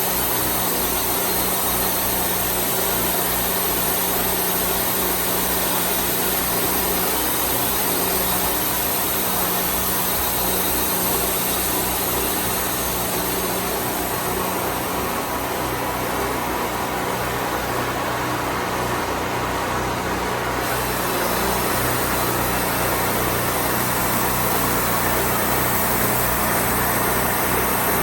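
Wood-Mizer portable bandsaw sawmill running steadily, its engine holding a constant hum.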